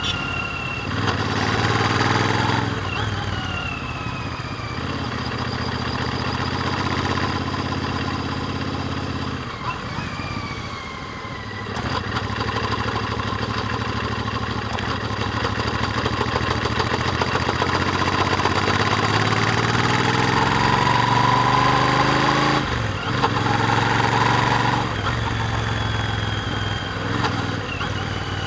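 Royal Enfield Interceptor 650's parallel-twin engine through its stock exhaust, heard from the saddle while riding. The engine note climbs under throttle and drops off at gear changes several times, with a longer lull about ten seconds in.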